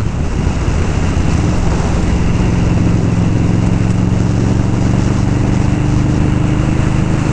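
Indian Scout motorcycle's V-twin engine running at a steady cruise, its pitch holding level, with wind and road noise.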